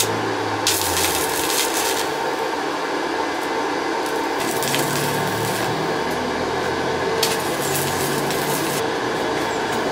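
Arc welding on steel bar: three short runs of crackling hiss, about a second in, around five seconds and again from about seven to nine seconds, over a steady electrical hum.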